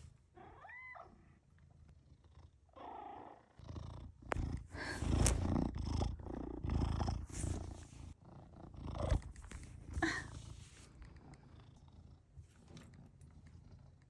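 Domestic cat purring close up, loudest from about a third of the way in, with a short pitched chirp about a second in.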